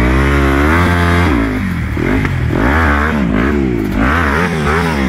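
Off-road motorcycle engine revving hard: the pitch climbs for about a second, then rises and falls several times as the throttle is worked.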